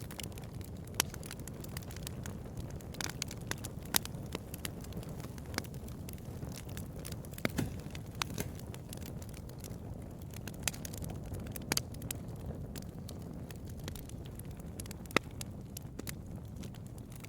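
Bonfire crackling: irregular sharp pops and snaps over a steady low rumble of burning, with a few much louder pops.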